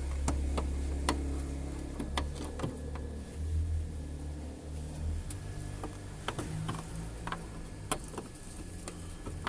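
Scattered light plastic clicks and scrapes of an angel-eye halogen bulb being worked and twisted into its headlight socket, over a steady low hum.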